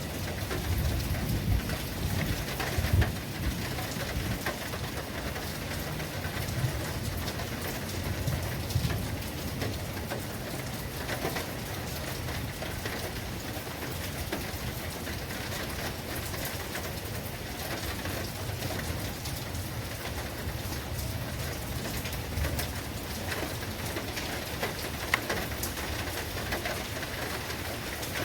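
Steady rain falling, a continuous hiss with scattered individual drop hits, and a low rumble under it during the first several seconds.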